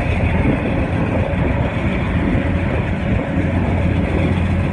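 Steady rumble and rattle of a passenger train running along the track, heard from aboard a carriage.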